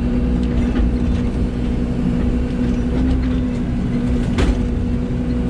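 Excavator's diesel engine running steadily with a constant droning hum, and one sharp knock about four and a half seconds in.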